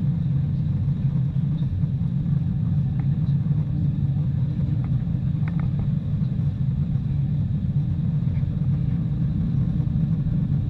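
Steady low rumble of a Boeing 747-400 with a few faint ticks in the middle.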